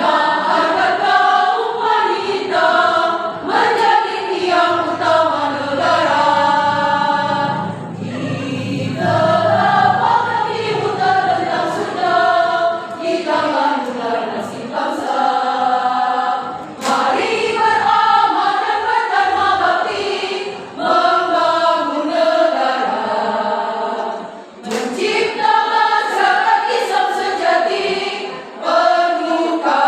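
Women's choir singing together, in long phrases broken by brief pauses.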